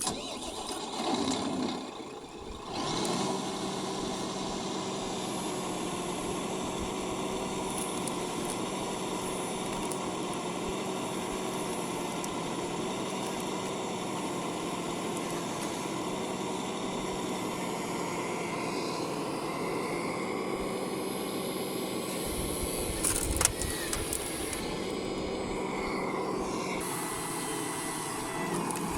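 Radio-controlled model construction machines running: a steady mechanical hum with a clear, even pitch, after an uneven start. A faint rising whine comes about two-thirds of the way through, and a single sharp click a little later.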